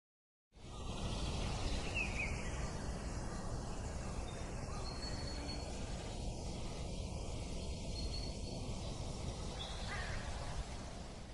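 Steady outdoor ambient noise, a rushing haze, with a few faint bird calls over it. It starts abruptly about half a second in and fades out near the end.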